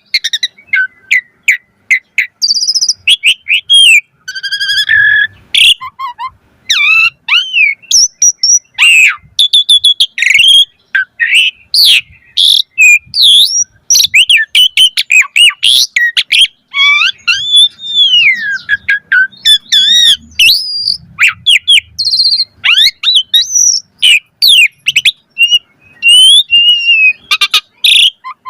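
Asian pied starling (jalak suren) singing a long, varied song of loud whistles, chirps and rapid trills in quick succession, with short gaps between phrases.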